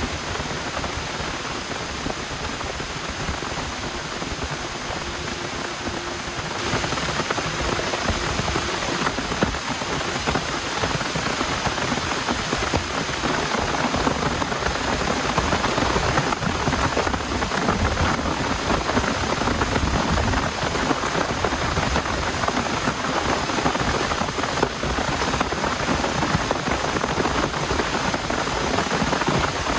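Heavy rain falling steadily, growing heavier about six and a half seconds in.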